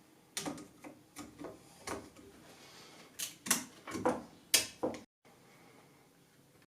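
Irregular sharp clicks and knocks, about ten in five seconds, from computer parts and their packaging being handled on a work surface.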